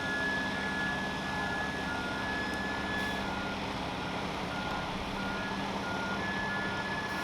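A vehicle's reversing alarm beeping about twice a second over a steady engine hum.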